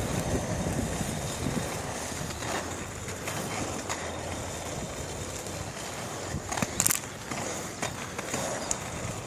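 Steady rolling noise of bicycle tyres on pavement, with a few sharp clicks about seven seconds in.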